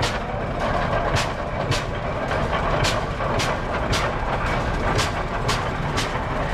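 Vintage tractor engine running slowly, its exhaust giving a sharp, even pop about twice a second over a steady low rumble.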